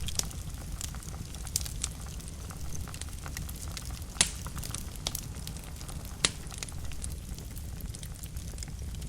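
Fire burning in a fireplace: a steady low rumble with scattered crackles and pops, two sharper pops about four and six seconds in.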